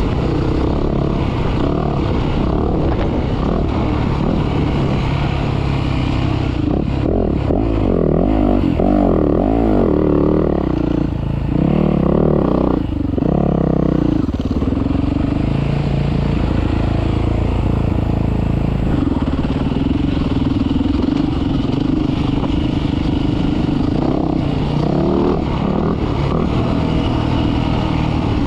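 Dirt bike engine running hard, its pitch climbing and falling again and again about halfway through, then holding steadier.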